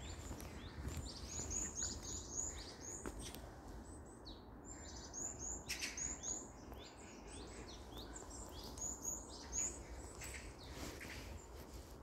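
Birds calling with short, high chirps, each falling slightly in pitch, coming in quick runs of several at a time.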